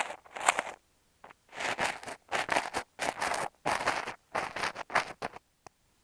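Kinetic sand crunching and scraping right against an earphone microphone, in a quick series of short, grainy strokes that stop a little after five seconds in, followed by one faint click.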